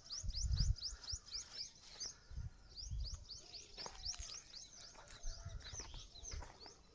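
A bird calling in a rapid series of short, high chirps that slide downward, about five a second, with a few low thumps near the start and again two to three seconds in.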